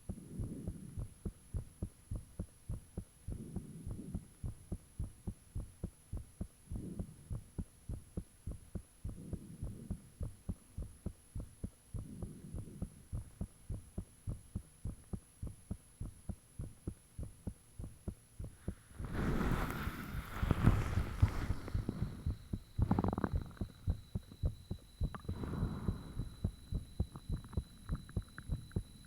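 A person's own heartbeat, a fast, regular train of low thumps, recorded close up; the uploader describes the heart as beating unusually hard ('really thumpy'). About two-thirds of the way through, a loud burst of noise lasting a few seconds rises over the beats, and a faint steady high whine sits under everything.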